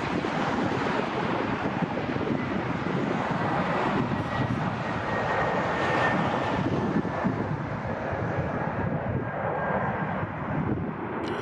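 Jet airliner engines running loud as a steady roar, with a thin high whine that slowly drifts lower in pitch.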